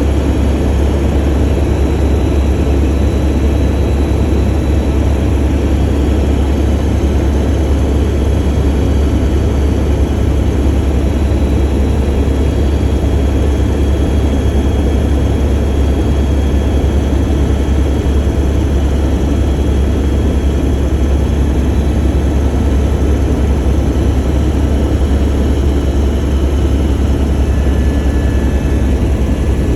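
Helicopter in flight, heard from aboard: a loud, steady, deep drone of engine and rotor that does not change.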